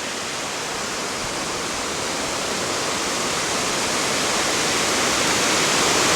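Waterfall rushing: a steady roar of falling water that grows gradually louder.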